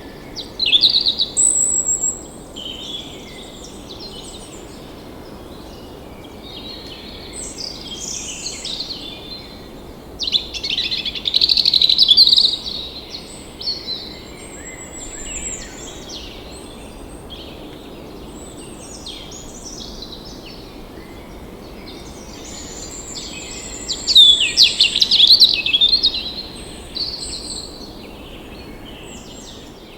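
Songbirds singing in repeated bursts of rapid, high warbling phrases, loudest about a second in, around the middle and again near the end, over a steady low background hiss.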